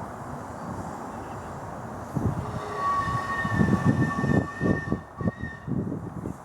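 Miniature 7¼ inch gauge steam locomotive's whistle sounding once, a steady two-note chord held for about three seconds starting a little before the middle, over low, uneven puffs of noise.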